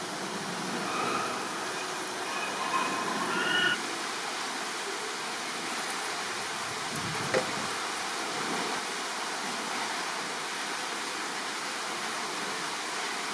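Steady, even rushing background noise, with a few short, high whistled chirps in the first four seconds and a single click about seven seconds in.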